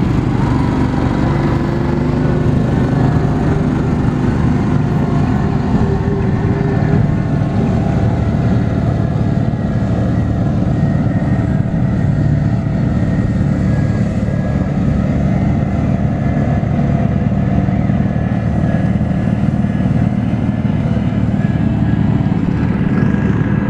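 Garden tractor engine running steadily under load.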